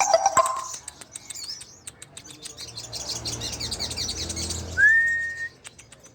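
Sogon sunbird song: rapid, high twittering chirps. Near the end a single clear whistled note slides up and holds briefly, the loudest sound. A low hum runs under the middle of the song.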